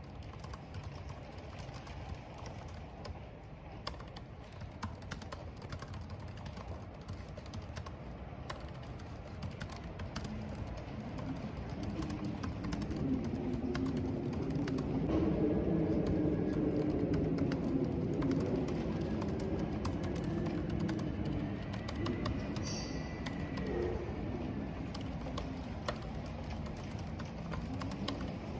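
Steady typing on a computer keyboard over a constant rush of rain and wind. A low rushing swell builds partway through, is loudest at about the middle, and eases off before the end.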